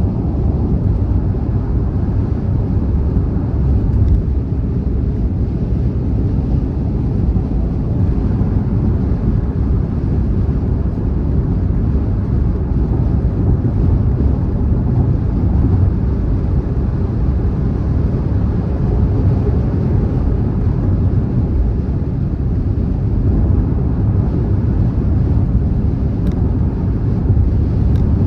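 Car travelling at speed on a motorway: steady, unbroken road and tyre rumble, deep and low-pitched, with no changes in pace.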